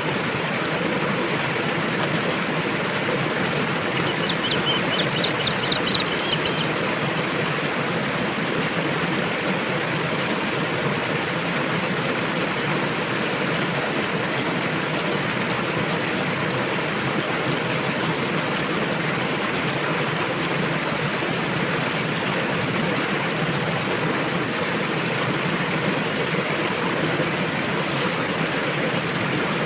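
Rushing river water running steadily. About four seconds in, a bird gives a quick run of repeated high chirps that lasts under three seconds.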